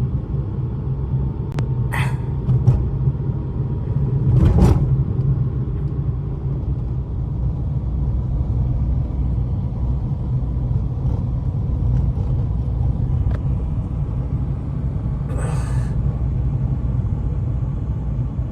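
A steady low rumble, with a few brief clicks or knocks over it.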